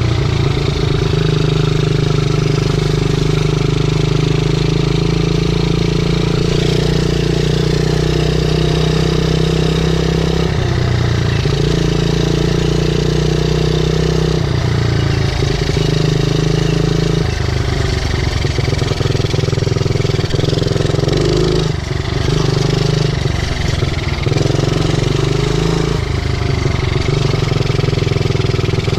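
50cc pit bike engine running while being ridden. Its note holds steady for a few seconds at a time and then steps to a new pitch several times as the throttle or gear changes, with a short drop in revs about three-quarters of the way through.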